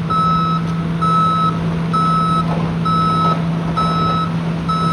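Backup alarm of a construction machine reversing: a steady high beep repeating about once a second, over the steady low hum of its engine.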